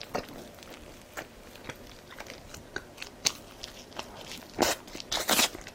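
A person chewing and biting crunchy food close to the microphone, with scattered small crunches and louder crunching bites near the end.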